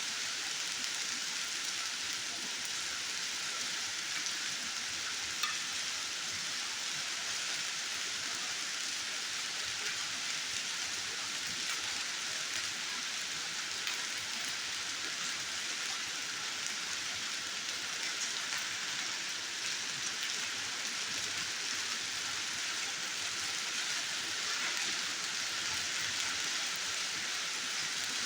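Heavy rain falling steadily as a dense, even hiss, with a few sharp ticks and one louder click about five seconds in.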